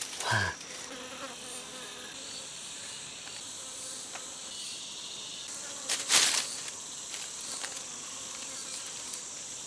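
Forest insects keeping up a steady, high-pitched drone, with a short noisy rustle or knock about six seconds in.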